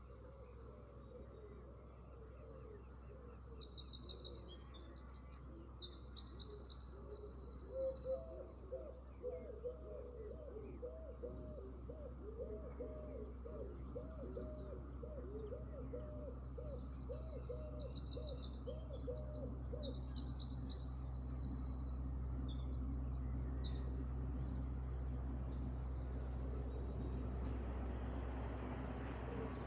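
Songbird singing in two bouts of bright, high, fast trills, with a lower repeated call in between. A steady low rumble runs underneath.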